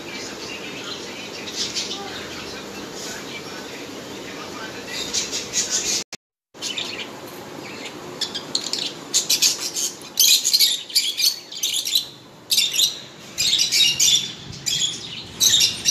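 Small birds chirping, at first faintly over a steady background hiss. After a brief dropout about six seconds in, the chirping becomes loud, rapid and continuous.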